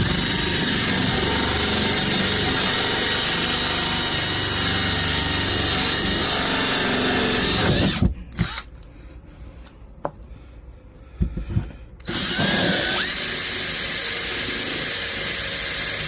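Power drill with a small bit boring a pilot hole through a cargo trailer's wall, running steadily for about eight seconds. It stops for about four seconds, with a few light knocks, then starts again and runs on.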